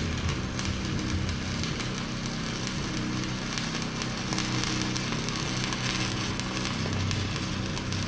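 Stick welding arc crackling steadily as a bead is laid to fix a bucket tooth to its worn shank, over a steady low hum.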